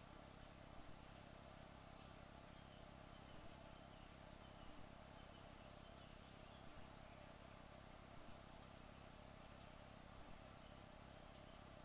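Near silence: a faint steady hum with soft double ticks every second or two.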